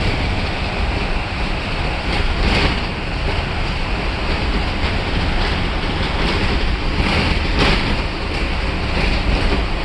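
Cabin noise of a 2010 Blue Bird cutaway school bus on the move: a steady low engine and road rumble with tyre hiss, broken by a few short rattles or bumps, about two and a half seconds in and again near eight seconds.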